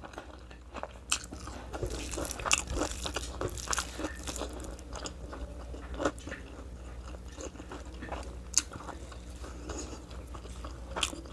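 A person chewing a mouthful of food, with irregular crunches and small wet clicks.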